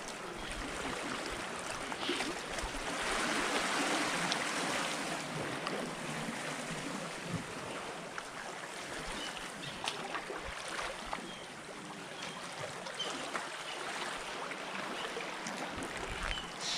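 Small waves lapping and washing on the water's edge, a steady splashing wash that swells for a couple of seconds near the start, with scattered small clicks.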